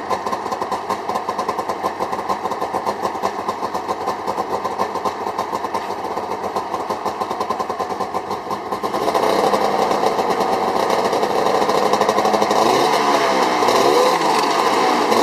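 1992 Polaris Indy 500 EFI snowmobile's two-stroke twin running after a cold start with a steady, fast-pulsing idle. About nine seconds in it speeds up and runs louder, and near the end the pitch rises and falls in short swings.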